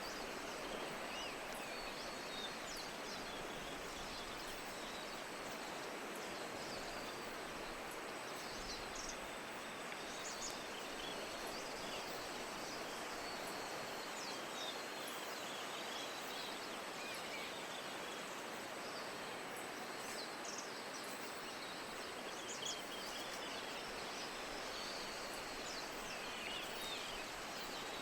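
Steady hiss of falling rain, with faint, short high chirps scattered through it and a thin, steady high tone above.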